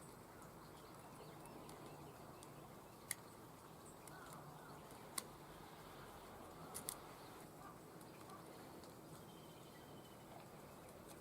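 Near silence with three brief sharp clicks spread through it, and faint bird chirps in the background.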